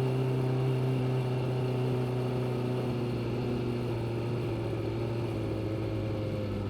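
Suzuki GSX600F's inline-four engine running at fairly steady revs, the pitch slowly easing downward.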